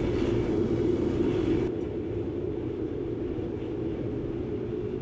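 Steady rushing noise of twin propane forge burners firing into a beer-keg melting furnace. Just under two seconds in the upper hiss drops away and it runs a little quieter.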